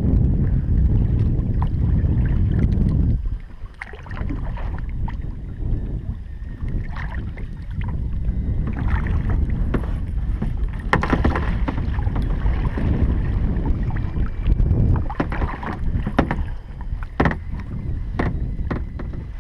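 Wind buffeting the microphone for the first three seconds. After that come scattered short splashes, drips and knocks as a trotline is pulled up by hand from a kayak and its hooks are checked.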